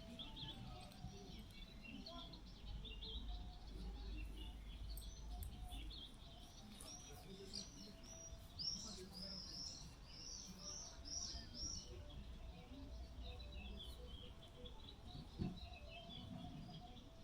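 Small birds chirping, with one bird giving a quick run of about ten repeated high notes midway.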